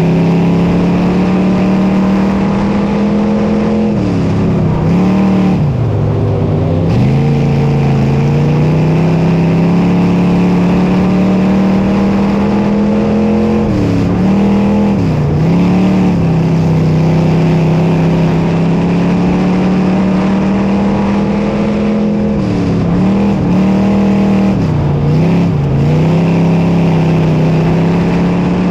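Dirt modified race car's engine running hard at steady high revs. Three times its pitch dips and climbs back as the throttle is lifted and reapplied: once about four seconds in, once around the middle, and once near the end.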